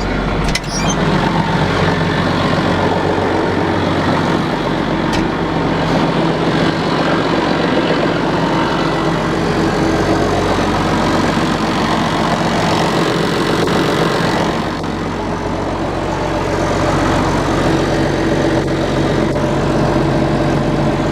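Case IH MXM 190 tractor's diesel engine idling steadily just after a cold start. The level dips briefly about fifteen seconds in.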